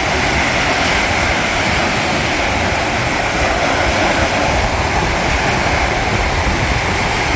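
Heavy rain pouring down, a steady, unbroken rush of water.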